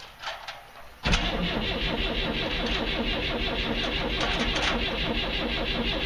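A 1965 Datsun PL320's engine being started on a cold start: the starter kicks in suddenly about a second in and the engine turns over steadily with an even, rapid rhythm. The owner believes the engine is flooded.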